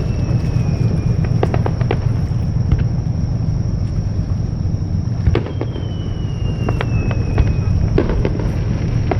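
Fireworks display: sharp bangs of bursting shells over a steady low rumble. About halfway through, a long whistle slowly falls in pitch, like a whistling shell's tail.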